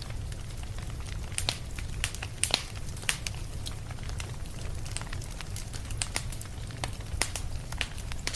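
Fire in a fireplace crackling, with irregular sharp pops a few times a second over a steady low rumble of the flames.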